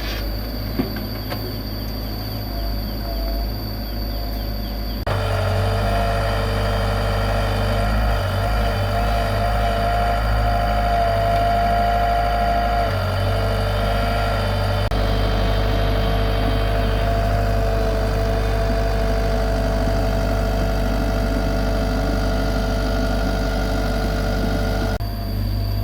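Komatsu PC75 excavator's diesel engine running steadily. About five seconds in the sound grows louder and a steady whine joins it, holding for most of the rest; one sharp knock comes just under a second in.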